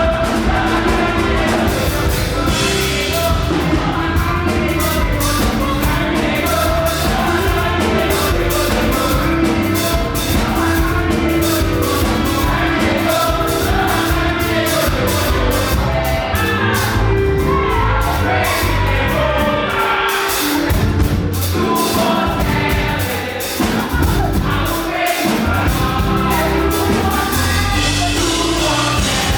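Live up-tempo gospel praise music: a group of voices singing together over a band with a steady driving beat. It dips briefly a little after two thirds of the way through, then comes back in.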